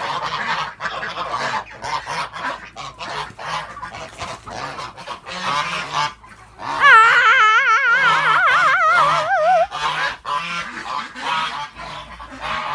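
Domestic geese honking as a flock, many short calls overlapping, with one long wavering call about seven seconds in.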